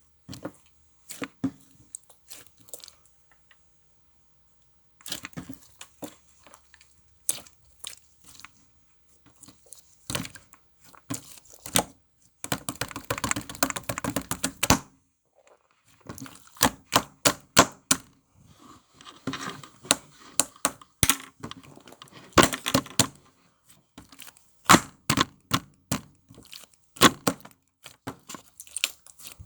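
Close, irregular crinkling, crackling and clicking, with a long dense crackle about halfway through.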